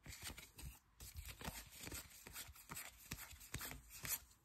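Faint rustling and light irregular clicks of trading cards and a foil pack wrapper being handled, cards sliding and flipping one over another.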